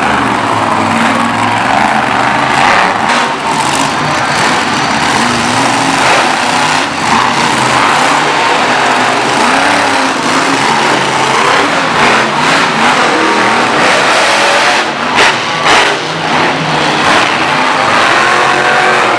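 Monster truck engine running loud and revving up and down repeatedly. There are a few sharp knocks about three-quarters of the way through.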